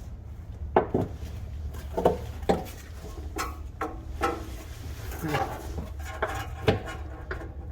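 A series of short metal clinks and knocks with some scraping, as a bolt is worked into the rear shock mount and lined up with its hole.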